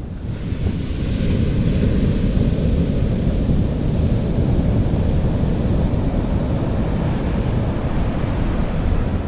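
Sea waves washing onto a beach, one wave's hiss swelling about a second in and slowly fading, over a steady low rumble of wind on the microphone.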